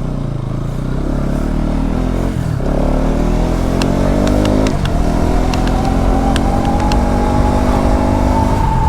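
Motorcycle engine accelerating, its pitch climbing steadily with brief dips about two and a half and five seconds in as it shifts up through the gears, over a low rumble of wind and road.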